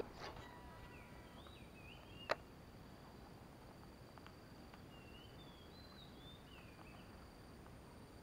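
Faint bird calls, short chirps sliding up and down in pitch, in two bouts, over a steady high insect drone, with one sharp click a little over two seconds in.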